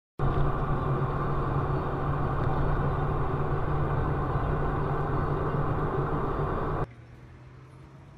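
Vehicle engine running steadily with road noise. It starts abruptly and drops off suddenly about a second before the end to a much quieter background.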